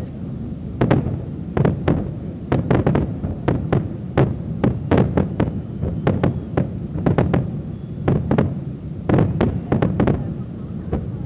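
Fireworks display: a rapid, irregular string of sharp bangs from aerial shells bursting, several a second at the busiest, over a steady low rumble.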